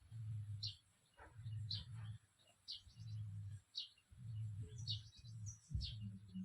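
A small bird calling again and again, one short high chirp about every second. Between the chirps comes a louder low hum that switches on and off in stretches of under a second.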